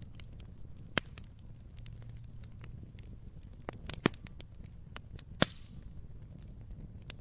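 Wood fire crackling: irregular sharp pops and snaps over a low steady rumble, with three louder snaps about one, four and five and a half seconds in.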